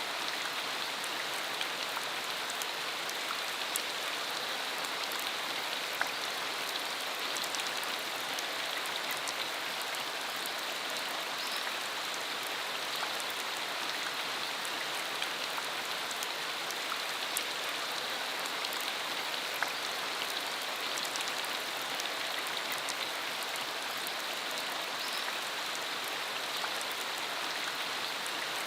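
Steady rain falling, a continuous hiss with many small sharp drop ticks scattered through it.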